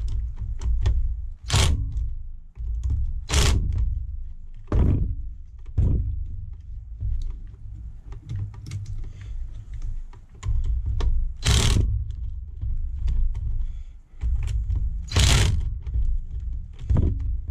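Blade clamp screws on a Ryobi ONE+ cordless planer's cutter drum being tightened by hand: a tool clicking and scraping against metal, with half a dozen louder knocks and a low handling rumble.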